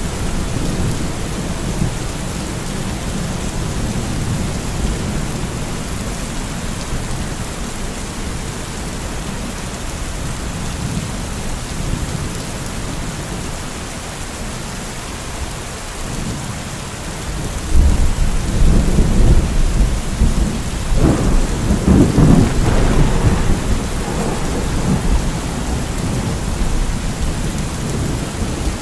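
Steady rain falling in a thunderstorm, with a low roll of thunder that swells about two-thirds of the way in and rumbles for several seconds before easing.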